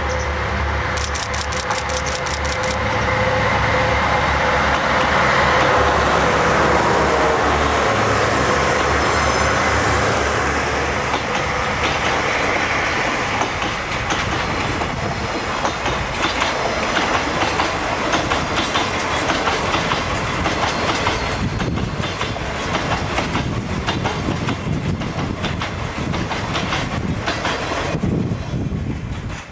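Diesel locomotive running past with a steady low engine drone, its tone falling as it passes, followed by a long freight train of container wagons and tank cars rolling by with rhythmic clickety-clack of wheels over rail joints; the sound drops away near the end as the last wagon passes.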